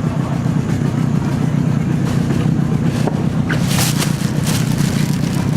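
Boat motor running steadily at low speed, with a few brief hissing noises partway through.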